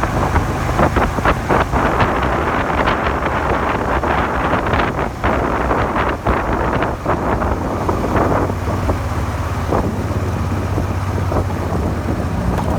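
Suzuki SV400 V-twin engine running steadily while the motorcycle is ridden, with heavy wind buffeting on the microphone.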